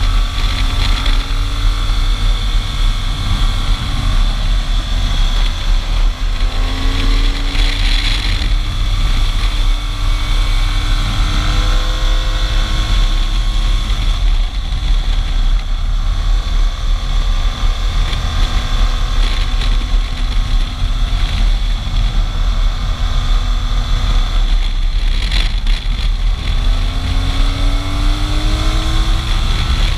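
Motorcycle engine running at road speed. Its pitch climbs several times as it accelerates, over heavy wind rumble on the microphone.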